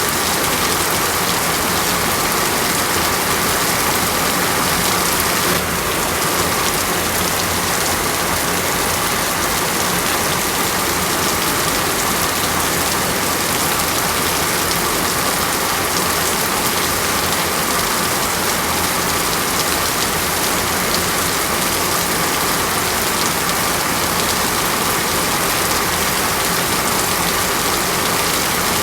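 Steady rain falling, an even hiss that neither builds nor eases.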